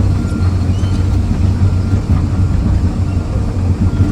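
John Deere 350 excavator's diesel engine running steadily, a constant low rumble heard from inside the closed cab.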